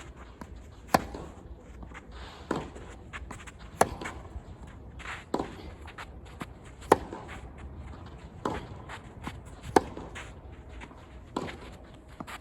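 Tennis rally: the ball is struck by racket back and forth about every second and a half, alternating louder and softer hits from the near and far player, with lighter bounces and footsteps on the court between strokes.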